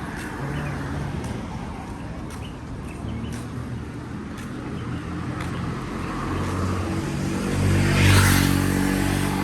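Street traffic with a motor vehicle's engine running close by, growing louder and passing loudest about eight seconds in.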